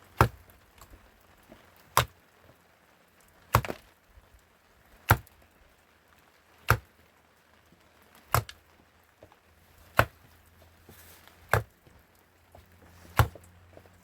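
Axe chopping wood: nine sharp, evenly spaced strokes, about one every second and a half.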